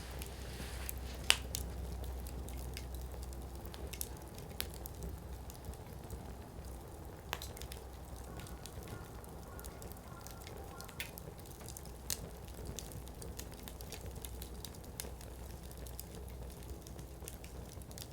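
Wood campfire burning, with a steady low rumble of flames and scattered crackles and sharp pops from the burning firewood, one pop about a second in louder than the rest.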